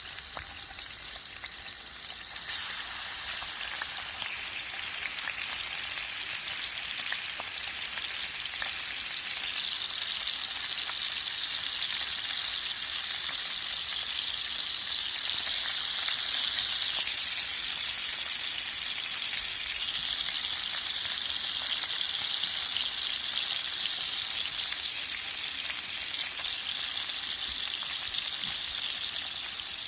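Fish frying in hot oil: a steady sizzle full of fine crackles that grows louder a few seconds in.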